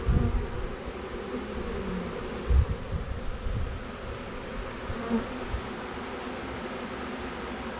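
A swarm of honey bees buzzing steadily around the box as they gather to their caged queen. A few low thumps, the loudest about two and a half seconds in.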